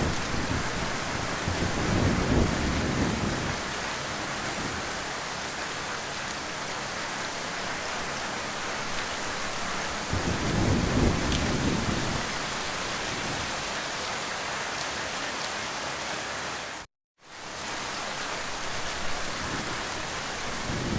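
Heavy rain falling steadily, with low rolls of thunder swelling about two seconds in, again around ten seconds, and near the end. The sound cuts out completely for a moment shortly before the end.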